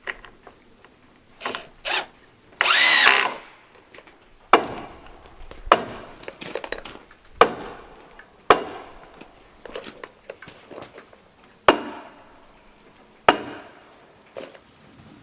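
Woodworking on a door frame: a power tool runs in short bursts, the longest for under a second, then a series of sharp knocks on wood one to two seconds apart, each ringing out briefly.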